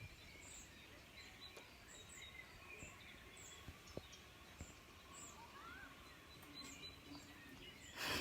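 Quiet outdoor background with faint, scattered bird chirps and a couple of soft clicks.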